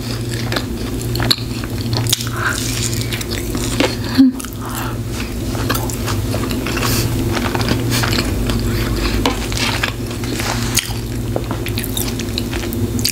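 Close-miked chewing of a grilled cheese sandwich: wet mouth clicks and smacks over a steady low hum, with one sharp, louder click about four seconds in.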